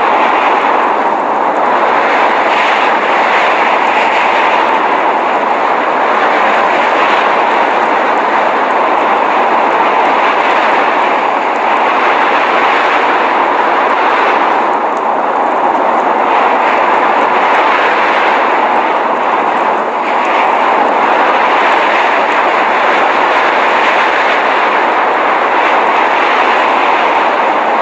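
Steady rushing noise of blizzard wind, a constant hiss with only slight swells and dips in level.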